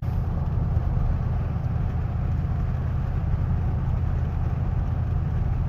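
Boat engine running steadily at an even speed, a low hum.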